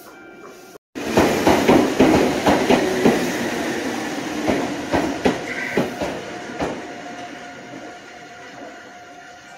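Meitetsu electric train's wheels clacking over rail joints, starting abruptly about a second in, loud at first, then fading as the clacks come further apart.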